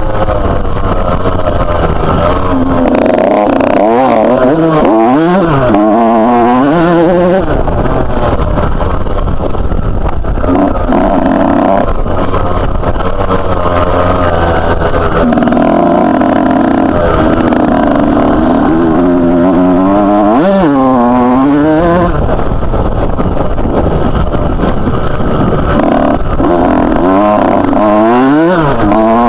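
Two-stroke motocross bike engine being ridden hard, its pitch rising and falling over and over as the rider works the throttle and gears.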